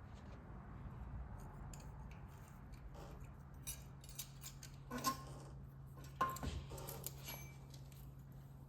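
A few light metallic clinks and taps of hand tools and steel gear parts being handled during a differential re-gear, the two loudest, about five and six seconds in, ringing briefly. A steady low hum runs underneath.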